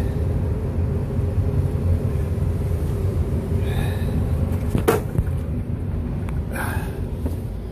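Steady low rumble with a constant hum, and one sharp click about five seconds in.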